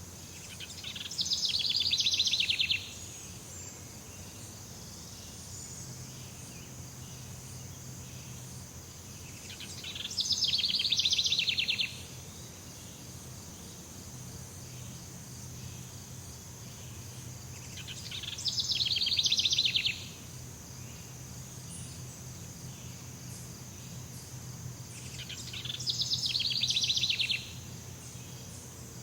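Jungle ambience: a steady high-pitched insect drone, with a rapid trilling call repeated four times, about every eight seconds. Each trill lasts about two seconds, grows louder and then stops abruptly.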